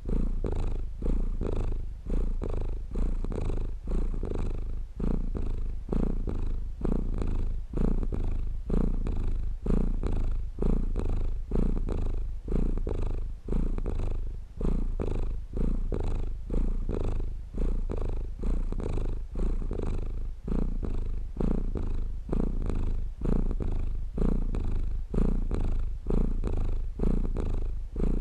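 A domestic cat purring close up: a continuous low rumble that swells and dips with each breath, about once a second.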